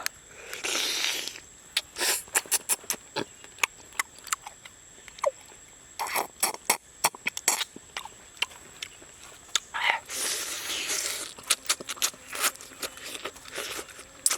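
A run of sharp clicks, scrapes and short crunching noises, with two longer hissy scraping stretches near the start and about ten seconds in. A thin, steady, high-pitched tone sits behind them.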